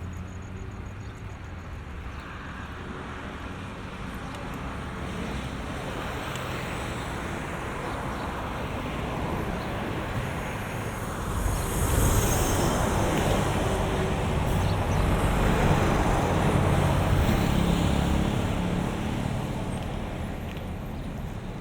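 Motor traffic passing on a road bridge: a steady rush of tyres and engines with a low rumble. About halfway through, a vehicle passes close, and the traffic noise grows louder for several seconds before easing off near the end.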